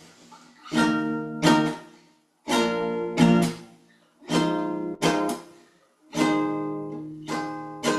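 Acoustic guitar playing strummed chords in a repeating pattern: two strums close together about every two seconds, each chord ringing briefly and then stopped short.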